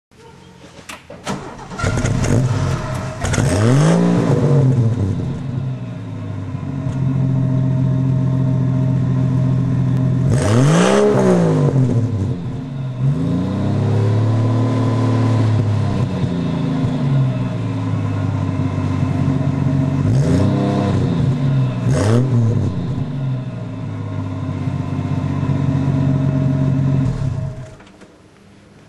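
1966 Chrysler Valiant VC Regal's engine through a Lukey muffler exhaust from the headers back. It starts about two seconds in and idles, with the throttle blipped into quick revs about five times. It shuts off near the end.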